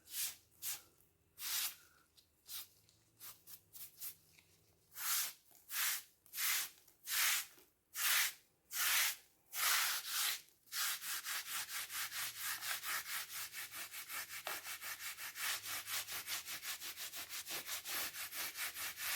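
Excess grout being rubbed off ceramic tiles: slow separate wiping strokes at first, then quick, even back-and-forth rubbing of about five strokes a second through the second half.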